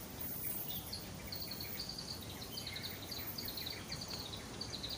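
Many aviary birds chirping, a quick run of short high chirps that starts under a second in, over a steady low background noise.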